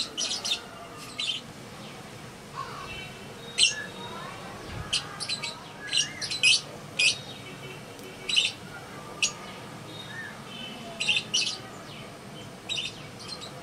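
Birds chirping: many short, sharp, high chirps come irregularly, with a few softer lower calls among them.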